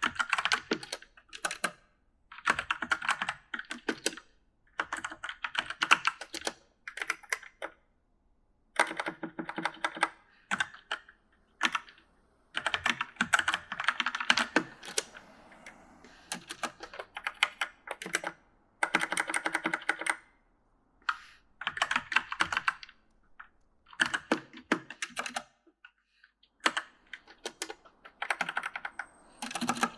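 Typing on an E-Element mechanical gaming keyboard: fast runs of key clicks in bursts of one to two seconds, broken by short pauses.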